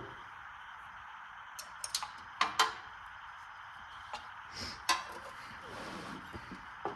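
Hand tools and metal engine parts clinking and knocking several times, irregularly, the loudest two knocks about two and a half seconds in, over a steady low hiss.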